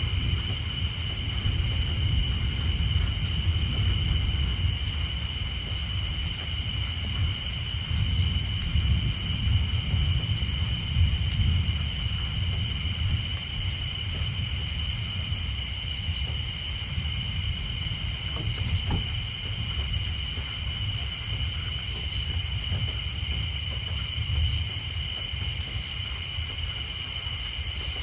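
Distant thunder rumbling low and rolling, swelling for several seconds before easing off, under a steady high-pitched chorus of tree frogs and a light patter of rain on a tin roof.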